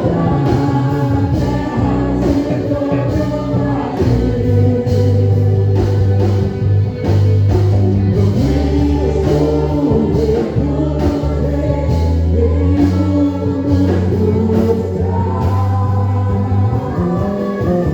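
Gospel worship song: voices singing over a band with a steady bass line and drums.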